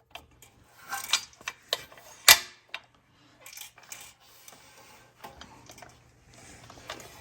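Metal parts clinking and knocking together as they are picked up and handled, in a string of sharp clicks, the loudest about two seconds in.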